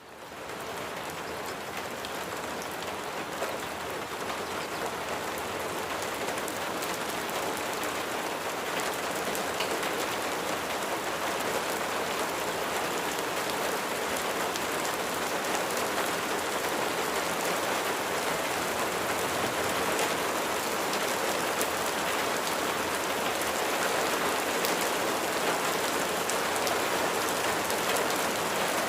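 Steady rain falling on hard surfaces, a dense even hiss flecked with individual drop ticks, fading in over the first second.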